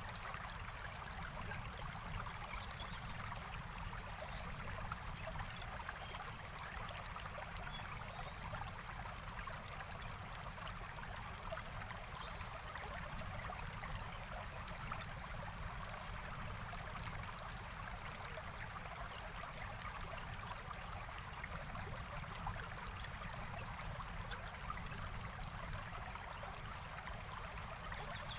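Small forest stream flowing and trickling steadily over stones, an even, unbroken rush of water. A couple of faint high chirps come through about eight and twelve seconds in.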